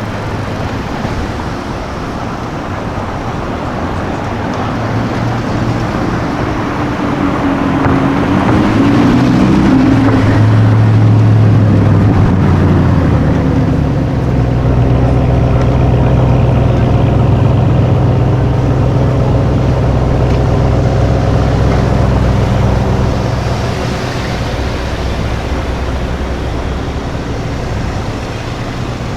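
Car engine running nearby, its pitch rising and falling about eight to ten seconds in, then holding a steady low hum for several seconds before fading slightly.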